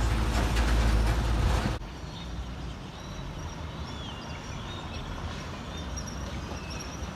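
A low vehicle rumble that cuts off suddenly about two seconds in, giving way to quieter outdoor ambience with a few faint chirps.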